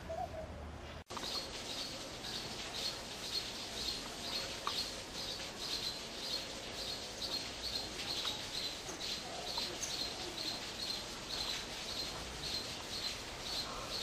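A bird chirping steadily: a short, high chirp repeated about twice a second.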